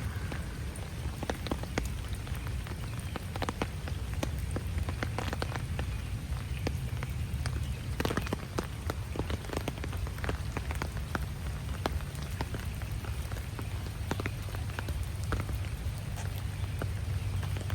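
Rain falling, with many irregular drops ticking sharply on nearby surfaces over a steady low rumble.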